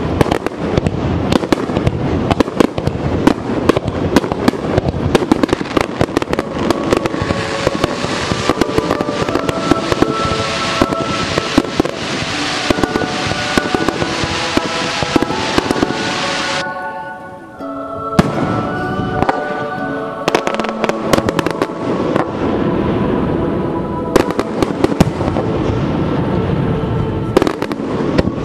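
Fireworks bursting and crackling in quick succession, with music of held notes playing along. There is a brief lull about two-thirds of the way through.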